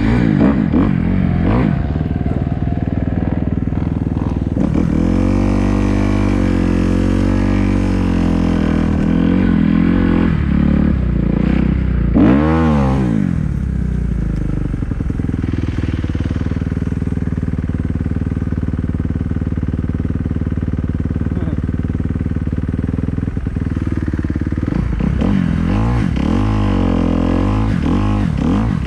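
Kawasaki KX250F dirt bike's single-cylinder four-stroke engine running and being revved. There is one sharp rev up and back down about halfway through, and several quick blips of the throttle near the end.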